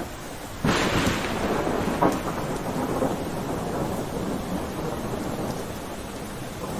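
Steady rain with a clap of thunder that breaks in suddenly just under a second in, cracks again about two seconds in, and rumbles away over the following seconds.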